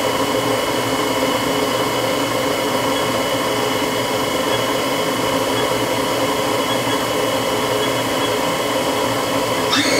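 Spindle of a 1998 Haas HS1RP horizontal machining center running at speed: a steady whine of several tones over a hiss. Near the end new higher tones rise in as the spindle is ramped up from 1500 toward 3000 RPM.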